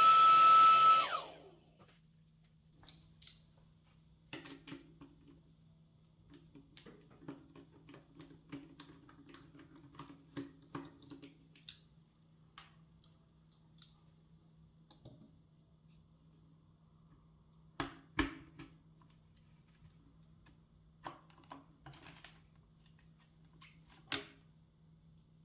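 An electric blower motor runs and spins down about a second in, its whine falling as it stops. Then come scattered light plastic clicks and taps, with a few sharper knocks later on, as IBM Model M keyboard parts are handled, over a faint steady hum.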